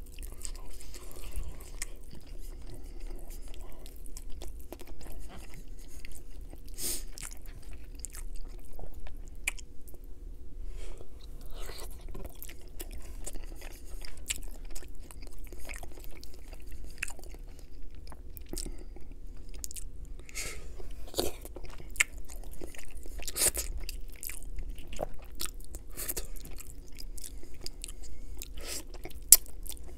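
Close-miked chewing of rotisserie chicken, with crunching and many irregular wet clicks and smacks as the meat and skin are torn apart by hand and eaten.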